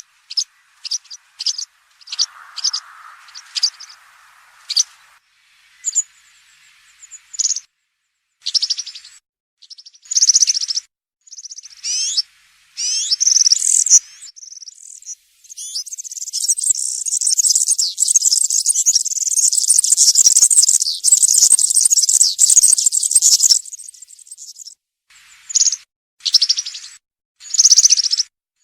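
European serin singing its wild-type 'campero' song: high-pitched, rapid phrases, first in short bursts, then one long unbroken stretch of about eight seconds from about halfway through, then short bursts again.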